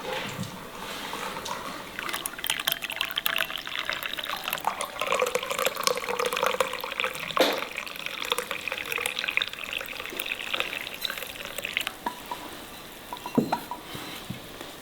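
Water running from a tap into a sink with small clatters and knocks, the flow stopping about twelve seconds in. A single sharp knock comes near the end.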